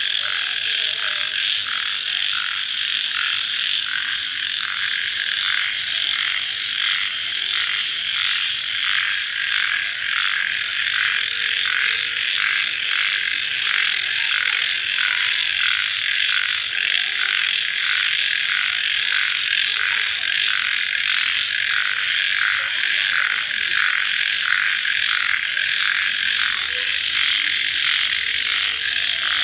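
Dense night chorus of calling animals after rain, many callers overlapping in a steady, pulsing trill that beats about twice a second.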